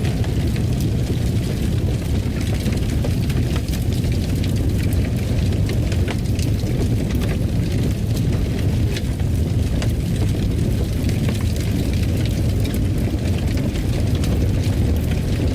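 Wood fire in a fireplace crackling: a steady low rumble of burning with many small sharp pops and crackles scattered throughout.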